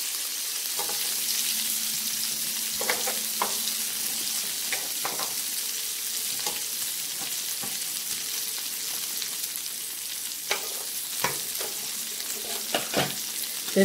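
Scallops, shrimp and sausage frying in melted butter on a hot griddle plate, a steady sizzling hiss. Scattered sharp clicks of metal tongs against the griddle and food as the shrimp are turned, several of them near the end.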